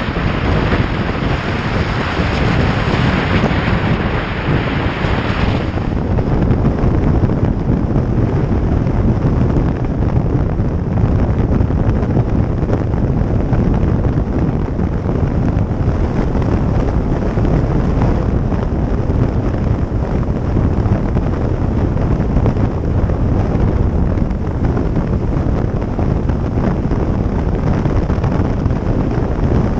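Wind buffeting the microphone of a moving motorcycle, a dense steady low rumble of wind and road noise. A higher hiss on top of it drops away about five seconds in.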